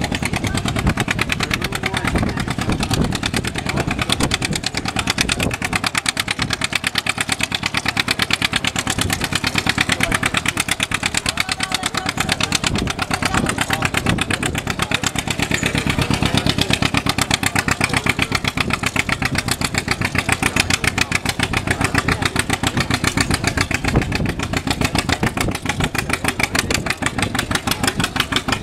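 An engine running steadily at an even speed, its firing heard as a fast, regular beat.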